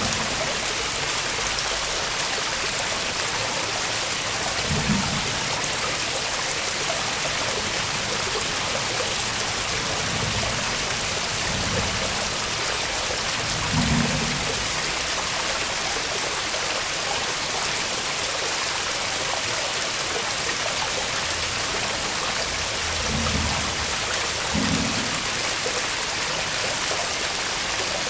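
Waterfall's water rushing as a steady, even hiss, with a few soft low thumps now and then.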